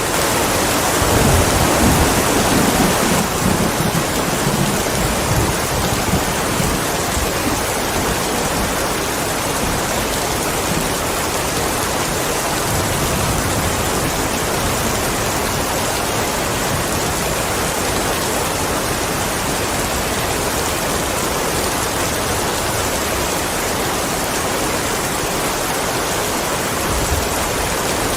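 Steady heavy rain falling, with a low rumble of thunder in the first few seconds and another beginning near the end.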